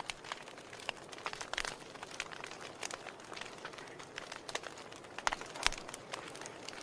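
Wood fire crackling in a fireplace: irregular sharp pops and snaps over a soft steady hiss, with the loudest pop about five and a half seconds in.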